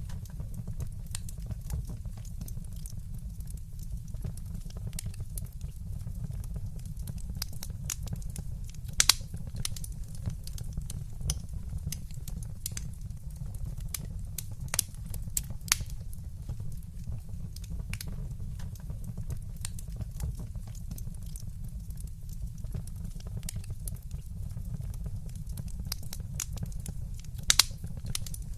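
Wood fire burning in a fireplace: a steady low rumble with frequent small crackles and pops, a louder snap about nine seconds in and a sharp double snap near the end.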